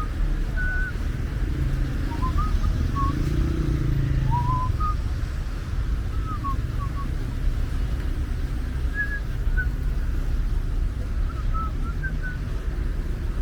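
Steady low rumble of city street traffic, swelling as a vehicle passes about three to five seconds in. Short high chirps sound on and off throughout.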